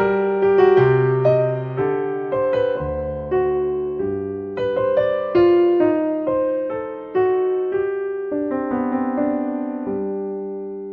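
Gentle background piano music: a slow melody of single notes and chords, each struck and left to fade, with a last note ringing on near the end.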